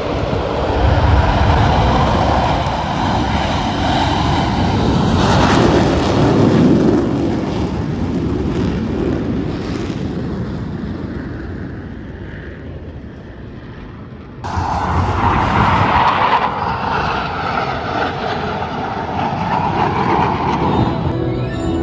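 Jet aircraft engine noise from planes flying past, swelling and then fading away. About two-thirds of the way through it cuts off abruptly and comes back loud at once, as another passing jet.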